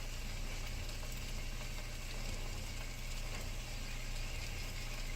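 Steak with sliced onions laid on it, frying with a steady, even sizzle over a low, constant hum.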